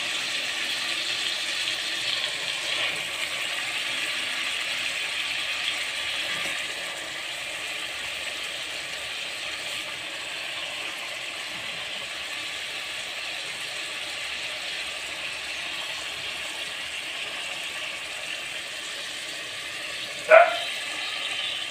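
Chicken pieces sizzling in a pot of hot tomato and spice mix: a steady frying hiss that eases slightly after about six seconds. A brief sharp sound comes near the end.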